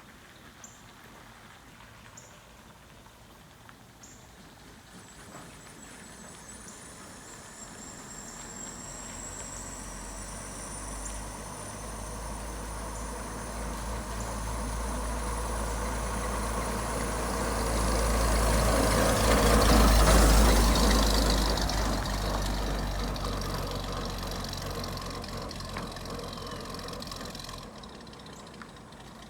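1935 Chevrolet half-ton pickup's inline-six engine running as the truck comes closer and drives past. It grows steadily louder to a peak about twenty seconds in, then fades away.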